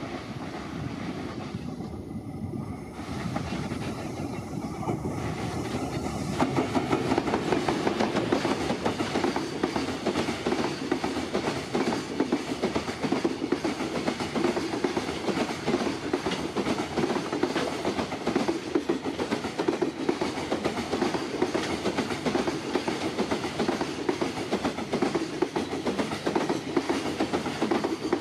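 JR Freight EF210 electric locomotive hauling a container freight train past at speed. The sound grows louder over the first six seconds or so as the train nears. Then a long string of container wagons rolls by, wheels clattering rapidly and evenly over the rail joints.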